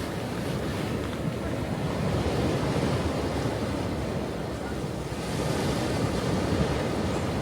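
Ocean waves washing on a shore: a steady rush of surf that swells louder twice, about two seconds in and again about five seconds in.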